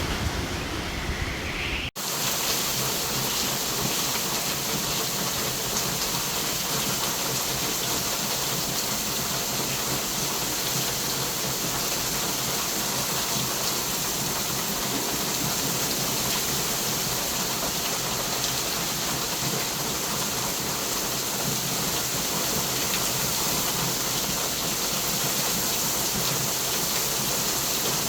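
Heavy hurricane rain falling as a steady, even hiss. For the first two seconds there is a deeper wind rumble that cuts off abruptly.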